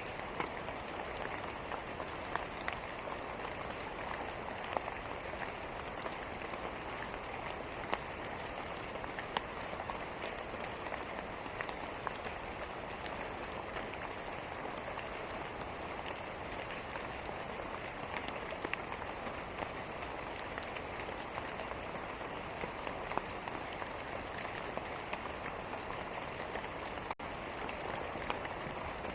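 Steady rain falling on a hard surface, an even hiss with scattered individual drop taps. A momentary break in the sound about 27 seconds in.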